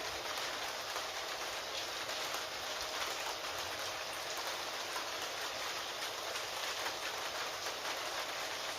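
Steady rain falling, a dense patter of drops that holds even throughout.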